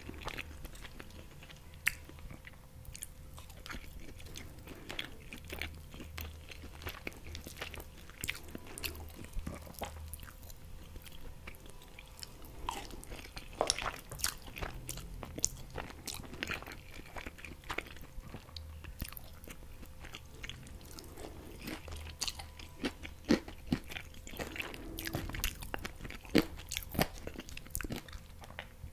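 Close-miked chewing of green noodles and fried jack mackerel fillet: a steady run of wet mouth clicks and smacks, denser and louder around the middle and again near the end.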